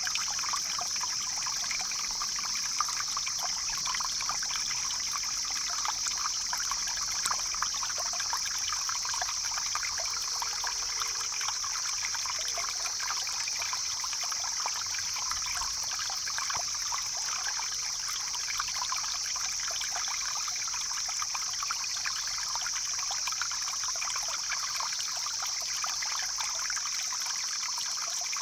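Mountain stream flowing steadily, a constant splashing babble of water over rocks with a steady high-pitched hiss above it.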